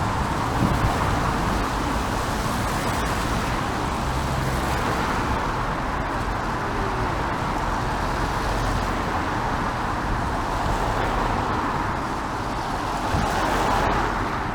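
Steady city road traffic, car tyres hissing on wet roads; the noise swells a little near the end as a vehicle passes.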